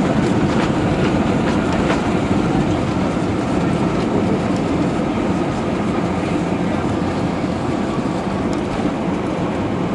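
Airbus A320 cabin noise on the runway just after landing: a steady rumble of wheels and engines that eases slowly as the jet slows down.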